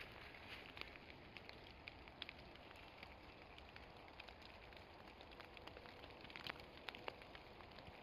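Light rain falling through a woodland canopy: a faint steady patter with scattered individual drops ticking, a few louder drips late on.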